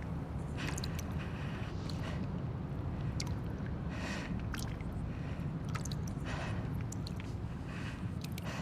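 Abandoned-building ambience: a steady low rumble under scattered small clicks and ticks, with a brief hissy swell every second or two.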